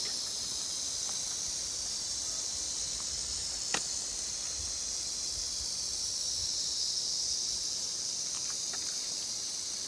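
Rattlesnake rattling its tail in a steady, unbroken high buzz, a warning to keep away. A single sharp click comes a little under four seconds in.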